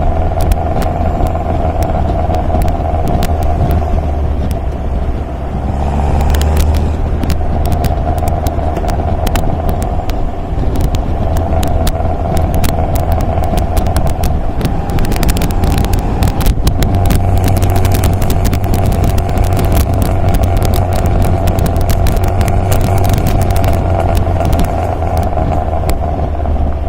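MG MGA roadster's four-cylinder engine running steadily under way, a constant low drone with many short crackles and clicks over it, thicker in the second half. The level dips briefly about five seconds in, then picks up again.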